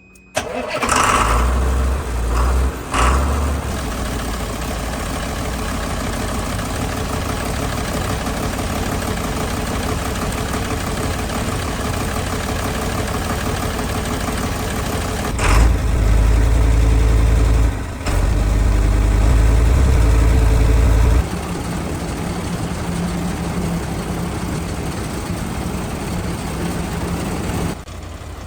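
Dongfeng heavy truck's rebuilt diesel engine starting up, test-run after the rebuild: it catches right away, is revved briefly, settles into a steady idle, and is revved again for several seconds in the middle before dropping back to idle.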